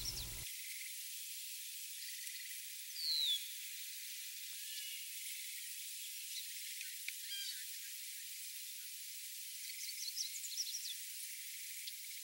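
Faint outdoor evening ambience: a steady hiss with a few faint, high, short chirps and calls, one falling chirp about three seconds in and a quick cluster near the end.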